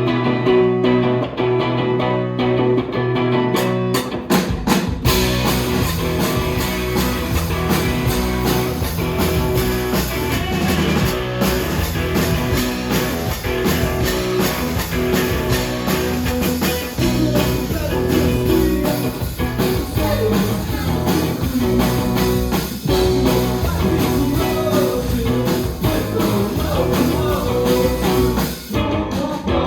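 Live rock band playing: a sustained guitar chord rings alone for the first few seconds, then drums, bass and the rest of the band come in about five seconds in.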